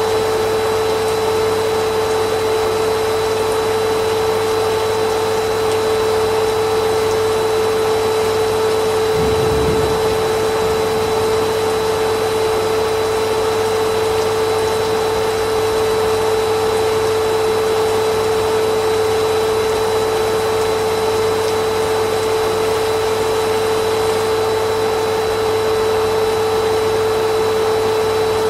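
Vacuum cleaner motor running steadily, a constant whine over airflow noise.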